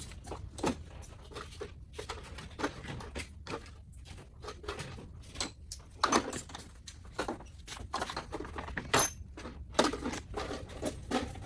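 Hand tools and small metal fasteners being handled, making irregular clinks and knocks, with a few sharper clacks about six and nine seconds in.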